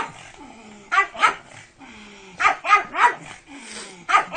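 A dog barking in short bursts: two barks about a second in, then three more in quick succession a little past halfway.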